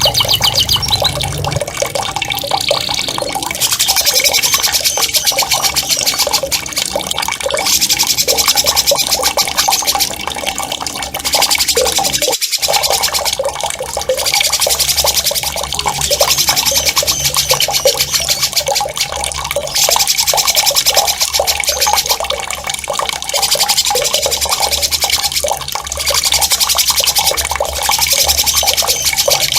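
Songbird singing a sharp, very fast rolling trill over and over in bouts of a few seconds, over a steady sound of running water.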